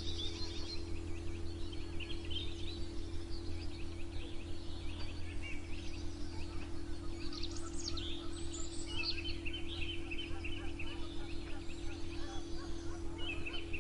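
Small songbirds chirping and trilling in a morning chorus, with calls overlapping and a run of quick repeated trills in the second half, over a steady low hum.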